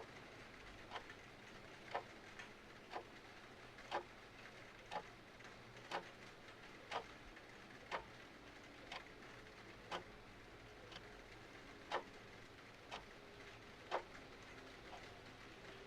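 A clock ticking steadily once a second, the ticks alternating slightly stronger and weaker like a tick-tock, over a faint steady hiss of rain and fireplace.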